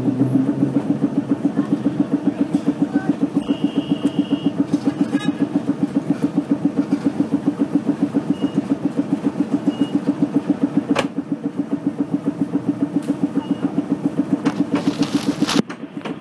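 St. Charles streetcar machinery running with a steady, rhythmic chugging at about six beats a second. A sharp click comes about eleven seconds in.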